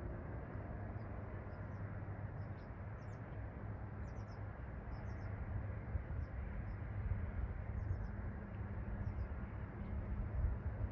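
Faint, short high-pitched chirps, a few at a time every second or so, over a steady low hum.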